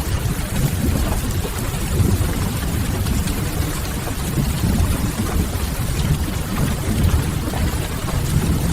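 Steady rain mixed with a low, even rumble and faint crackling from a wood fire, a continuous rain-and-fireplace ambience.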